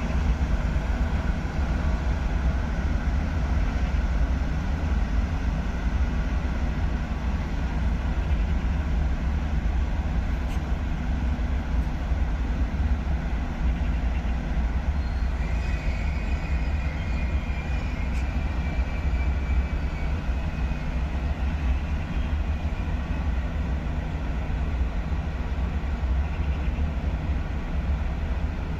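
A train running with a steady, loud low rumble. A faint high-pitched squeal sounds for a few seconds past the middle.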